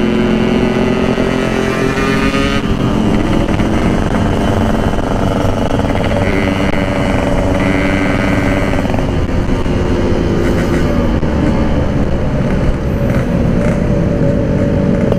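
Yamaha RX-King's 135cc single-cylinder two-stroke engine running under way through its exhaust. The engine note shifts about two and a half seconds in and again around nine seconds, then climbs slowly toward the end.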